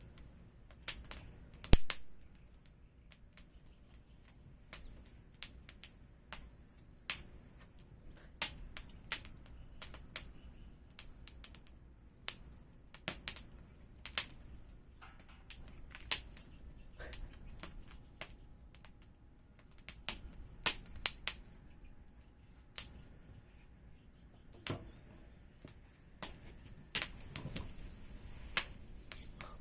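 Firewood fire crackling, with irregular sharp pops and snaps over a faint hiss. The loudest pop comes about two seconds in.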